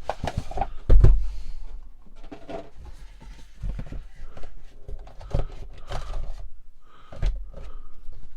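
Cardboard trove box of Disney Lorcana cards being handled and opened: a loud thump about a second in, then scattered knocks, clicks and rubbing of card and packaging.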